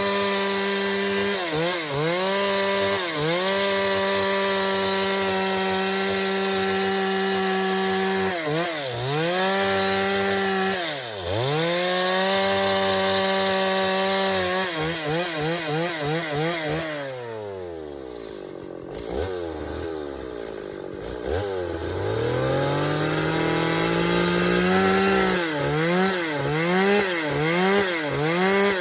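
Chainsaw running at high revs while cutting wood, its pitch dipping briefly several times as the engine bogs under load. About two-thirds of the way through it falls to idle, then revs back up and is blipped up and down repeatedly near the end.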